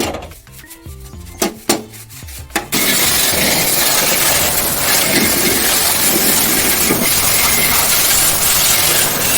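Background music with a few sharp clicks, then, nearly three seconds in, a loud steady rushing hiss with a machine hum beneath starts suddenly: a high-pressure cleaning jet running.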